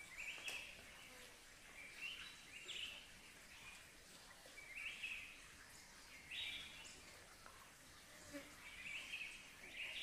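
A bird calling repeatedly, about seven short high phrases irregularly a second or two apart, over a faint steady background hiss.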